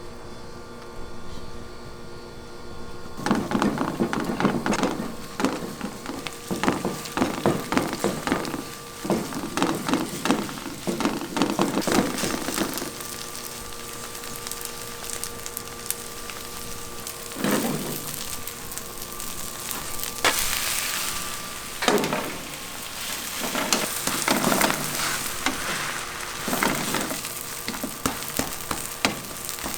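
Food sizzling in a cooking pot while being stirred and scraped. Quick scraping strokes come for about ten seconds, then single strokes at longer gaps.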